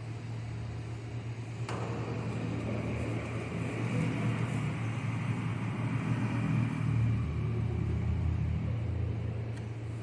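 Steady low rumble of a running engine that grows louder through the middle and eases off near the end, with a single sharp click about two seconds in.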